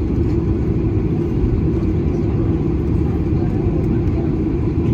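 Steady low rumble of a Boeing 737-800 heard from inside the passenger cabin: engine and airframe noise, even throughout.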